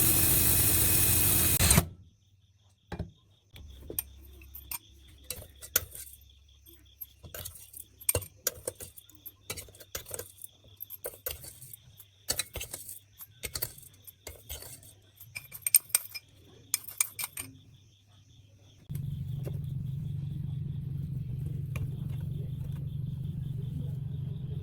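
A power tool runs for about two seconds and stops. Small metal parts clink and rattle as they are handled for a long stretch. Then a motor runs with a steady low hum near the end.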